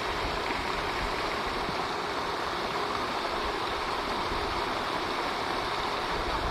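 Pond fountain spraying and splashing, a steady rush of water.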